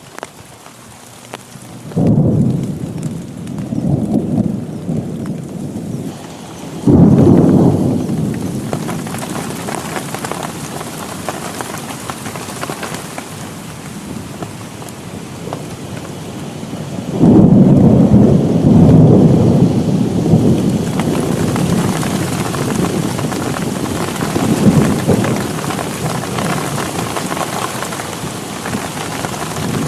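Heavy rain falling steadily through three rolls of thunder. The first starts about two seconds in. The loudest breaks suddenly about seven seconds in. A long rumble begins about seventeen seconds in and goes on for several seconds.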